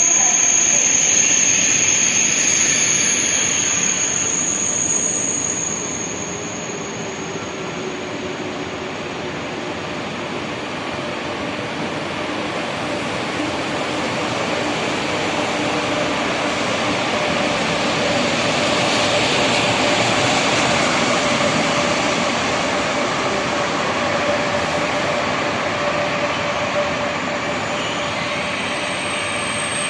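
High-speed train moving through the station: a continuous rumbling rush of wheels and rails, with a thin high whine in the first few seconds. It eases off briefly, then grows louder again through the middle of the stretch.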